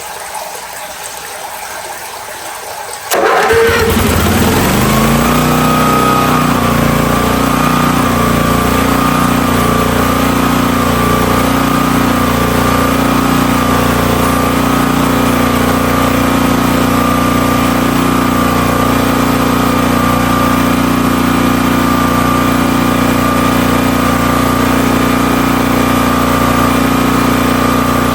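Hotsy pressure washer's 16-horsepower engine starting about three seconds in after a steady hiss, speeding up over a second or two and then running steadily.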